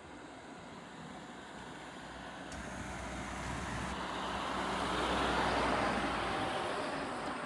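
A motor vehicle passing by: its road noise and low rumble build up, peak about five to six seconds in, then fade away.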